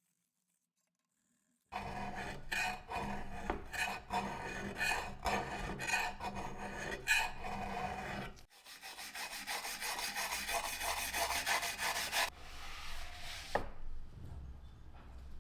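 Abrasive rubbing and rasping on a part of a vintage Peugeot coffee grinder. It starts about two seconds in as separate strokes, then turns into a denser, steadier rasping about halfway through.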